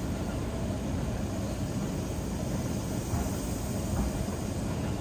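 Steady rumble of a moving electric train heard from inside the passenger carriage, with a couple of faint ticks a little after three and four seconds in.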